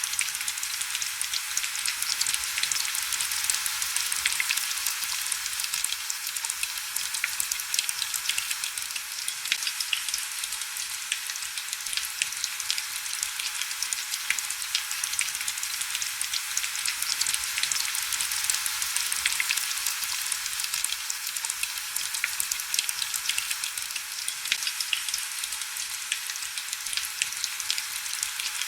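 Steady heavy rain: an even hiss made of many small drop ticks, sitting high with almost no low rumble.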